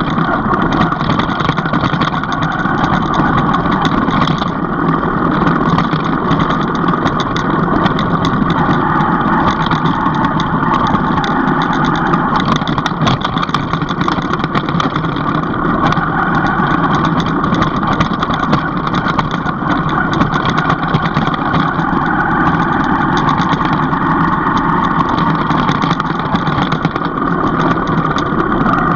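A motor vehicle's engine running steadily, with no marked revving or stops.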